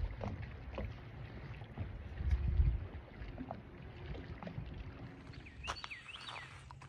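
Small boat out on the water: a low, rough rumble of water and wind, with a few knocks, loudest about two and a half seconds in. A few short high chirps come near the end.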